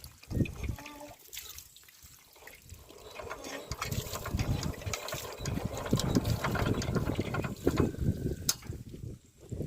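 Water pouring and splashing, growing louder about three and a half seconds in.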